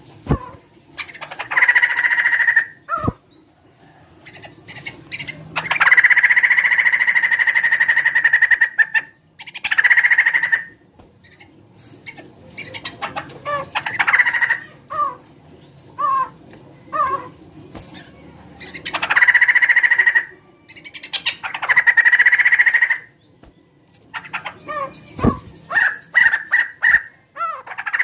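Laughingthrush (poksay) calling loudly: long bouts of song held around one pitch, the longest about three seconds, alternating with runs of short descending notes.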